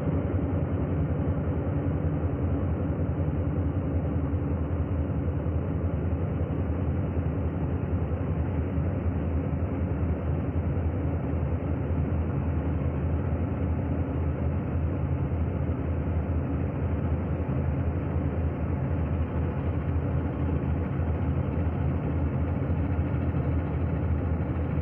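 Komatsu D85SS bulldozer's diesel engine running steadily, a low drone with no change in speed.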